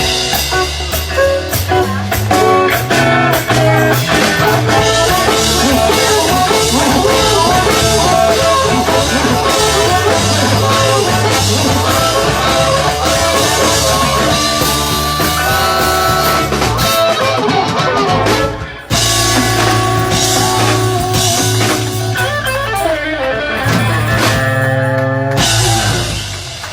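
A rock-blues band plays an instrumental passage on electric guitar, bass and drum kit. The music breaks off briefly about two-thirds of the way through, then comes back, and the song ends on the last notes near the close.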